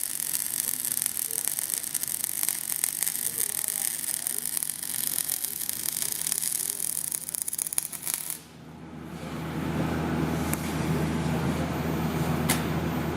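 MIG welding arc crackling steadily as a bead is laid at the low, short-circuit setting, then stopping abruptly about eight seconds in. A steady low hum then fades up, with a couple of sharp clicks near the end.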